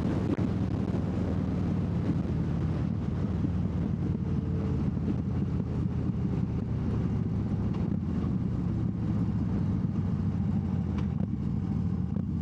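Harley-Davidson V-twin motorcycle engine running steadily at cruising speed, with wind rushing past the rider.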